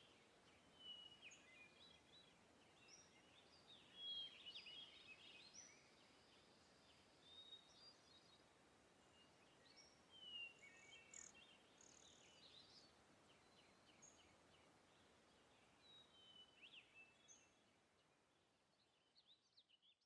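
Faint birdsong: scattered short chirps and whistles from birds, fading out near the end.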